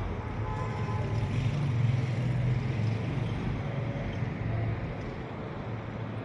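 Steady low outdoor rumble with wind noise on the microphone, swelling slightly about two seconds in and easing off toward the end.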